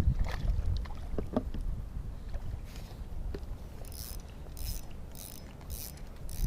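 A small hooked trout splashing at the lake surface as it is brought to the net: about five short splashes roughly half a second apart in the second half. Low wind rumble on the microphone throughout.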